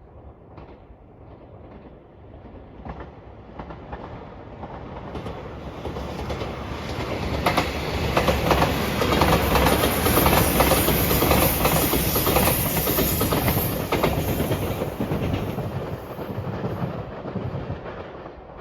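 JR Shikoku 8000-series electric limited express train passing, its wheels clattering rapidly over the rail joints. The sound builds over several seconds, is loudest midway, and fades away near the end.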